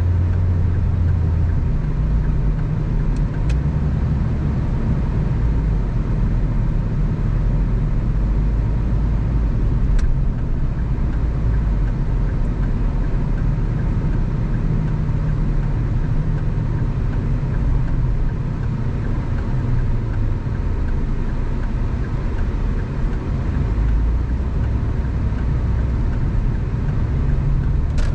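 A car driving at road speed: steady engine hum and tyre and road noise, with the low engine note shifting a few times as the speed changes, and a few faint clicks.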